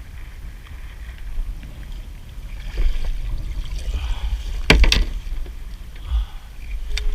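A kayak on open water during the hauling of a crab pot: low rumble and water noise, with two sharp knocks a little past halfway and another near the end as the pot is handled.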